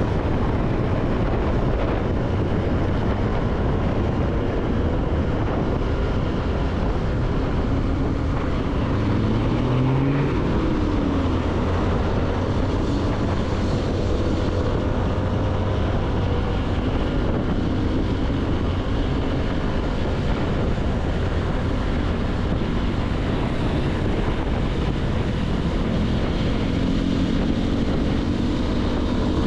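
CFMoto motorcycle engine running under way, with wind noise over the microphone; about ten seconds in the engine pitch climbs briefly and then drops back.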